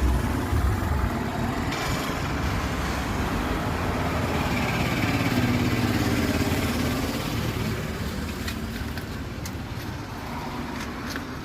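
Duster's engine running with an abnormal noise. The engine note swells slightly and then eases off, with a few light ticks in the later part.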